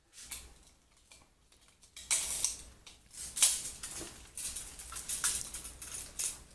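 Handling noise: a run of rustles, scrapes and light clicks as objects are moved about and picked up, starting about two seconds in.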